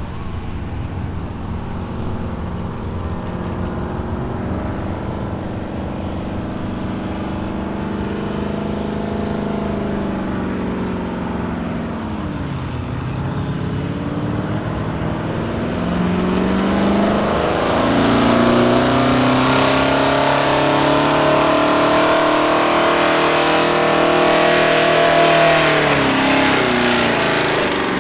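Gasoline street truck engine at full throttle pulling a weight-transfer sled. The revs dip about twelve seconds in, then climb again and grow louder from about seventeen seconds, falling away near the end as the pull finishes.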